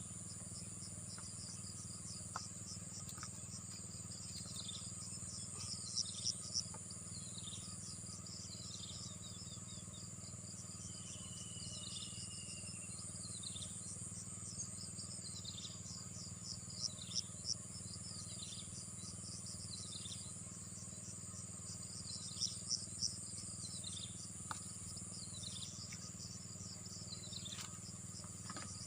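Insects trilling steadily at a high pitch, with a bird repeating a short falling call about once a second over a low steady hum. A few louder calls come in quick runs of three.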